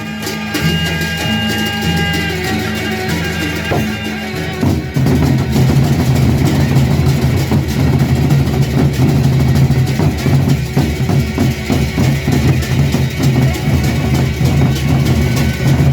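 Instrumental ensemble music with drums and percussion, growing fuller and louder about five seconds in.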